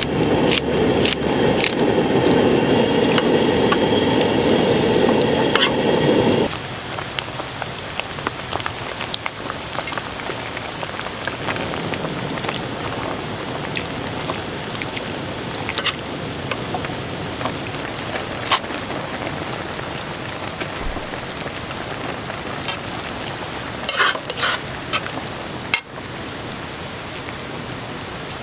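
Camp cooking: food sizzling in a pan, with sharp clicks and clinks of utensils. A louder, steadier rush of sound cuts off abruptly about six seconds in, leaving a quieter, even sizzle with scattered clicks and a few quick clinks near the end.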